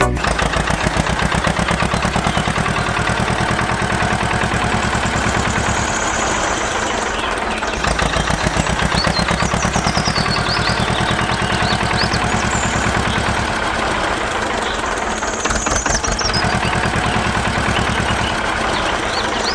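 A small engine or motor running steadily with a fast, even pulsing beat, with high chirps over it now and then.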